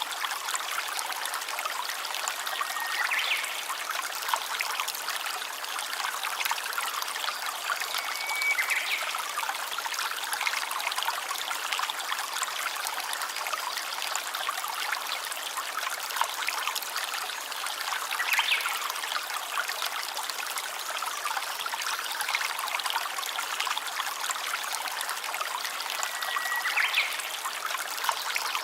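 Stream of water trickling and running steadily over stones. A brief high whistled note sounds four times over it.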